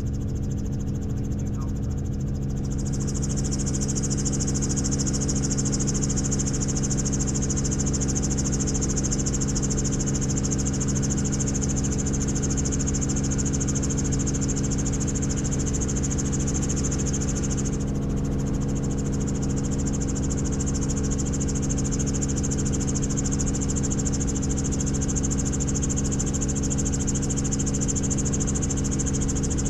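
Helicopter in flight: a steady drone from the rotor and turbine, with a high turbine whine that comes in a few seconds in and drops out briefly about two-thirds of the way through.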